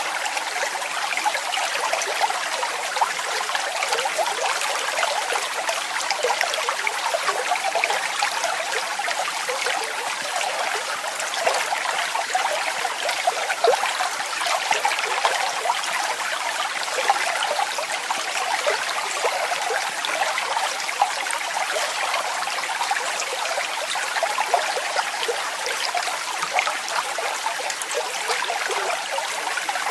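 Waterfall: water falling and splashing in a steady, even rush, full of fine spatters and with little deep rumble.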